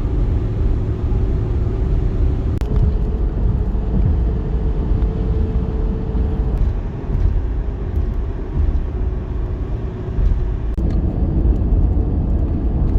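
Steady low road and engine rumble inside a pickup truck's cabin as it drives along, with a faint steady drone above it.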